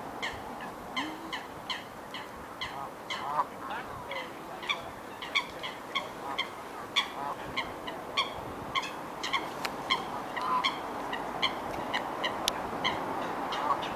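Waterfowl calling: a run of short, repeated calls, about two a second, over a steady background hiss.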